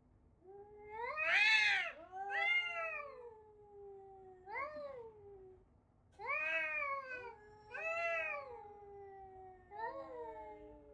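Cat yowling: a run of about six long, drawn-out meows, each rising and then falling in pitch, the loudest about a second and a half in.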